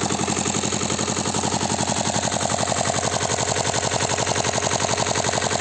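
Single-cylinder engine from an old Royal Enfield Bullet motorcycle, fitted to a small walk-behind tiller, running steadily with a rapid, even beat of firing pulses.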